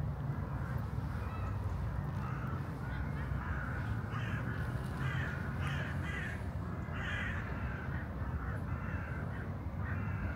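Birds giving many short, harsh calls in quick succession, starting a couple of seconds in, over a steady low rumble.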